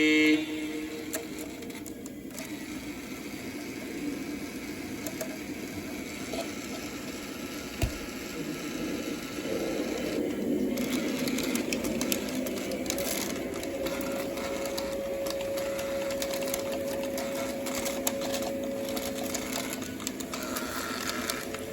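O gauge model train running on the track: a steady electric motor hum and wheel rumble, with a steady tone joining in about halfway through and scattered light clicks.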